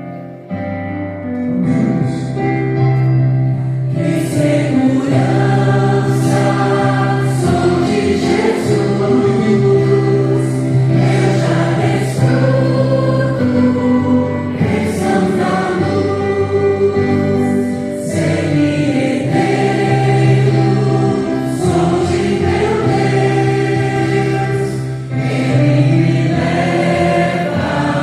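Choir singing a Christian hymn over instrumental accompaniment with long sustained bass notes.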